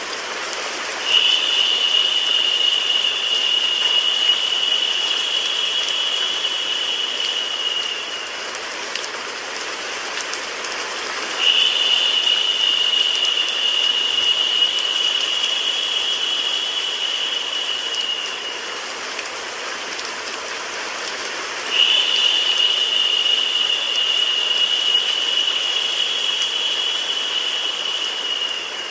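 Steady rain and white-noise hiss for sleep. A higher, louder hiss swells in suddenly three times, each lasting about seven seconds before fading, in a repeating pattern.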